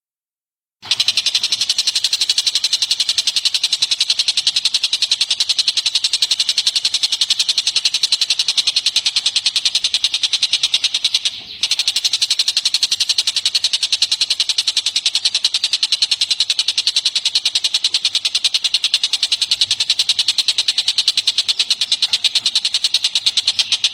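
A recorded songbird's rapid, high-pitched trill, a fast even pulsing. It starts about a second in and runs on unbroken except for one short gap near the middle.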